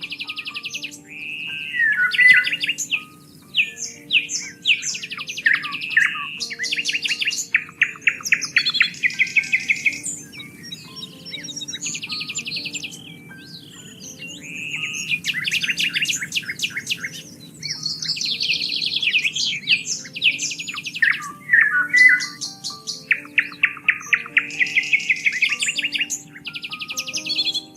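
Songbirds singing: rapid trilled and chirping phrases, one after another with brief gaps, over soft background music of low held notes.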